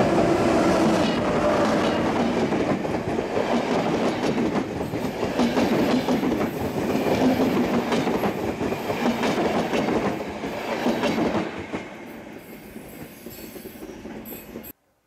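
Passenger train hauled by an ADtranz DE2000 (OSE class 220) diesel-electric locomotive running past close by. The coaches' wheels clatter rhythmically over the rails. The noise drops off sharply about three-quarters of the way through as the tail of the train goes by, and the sound cuts off abruptly just before the end.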